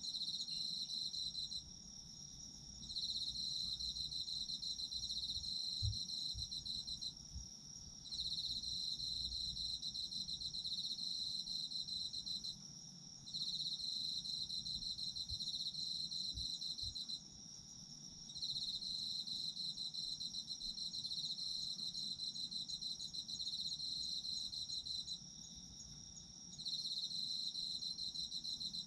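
Autumn insects calling: one trills in long phrases of about four to five seconds with short pauses between, over another insect's steady, unbroken high trill. A couple of faint low thumps are heard near a quarter and halfway through.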